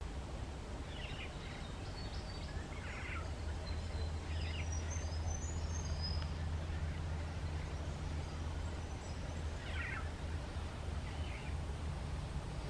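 Short bird calls five times, with thin higher chirps in the middle, over a steady low rumble.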